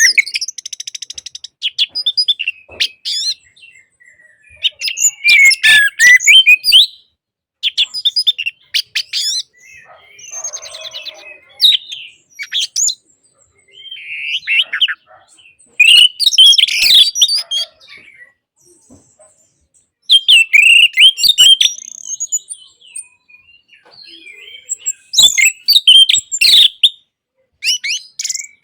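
Orange-headed thrush singing: bursts of rapid, varied, high whistled and chattering phrases lasting a second or two, separated by pauses of a few seconds.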